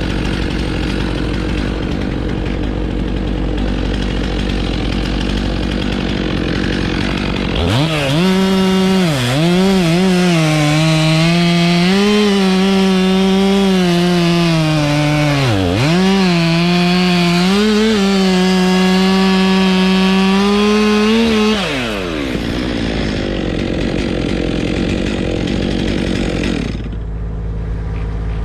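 Two-stroke chainsaw idling, then throttled up at about eight seconds and held at full speed for some 13 seconds while cutting wood, its pitch sagging twice under load. It drops back to idle around 22 seconds and quiets near the end.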